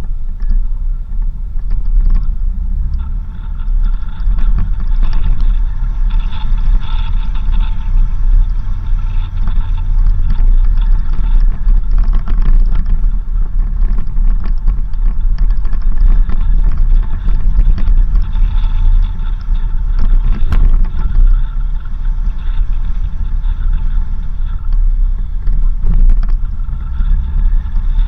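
4x4 vehicle driving on a rough dirt road: a steady low rumble of engine and tyres, with many small rattles and knocks throughout.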